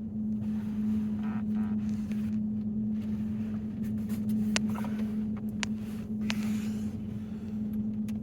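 Steady vehicle hum inside a stationary car, one constant humming tone over a low rumble, with a few faint clicks.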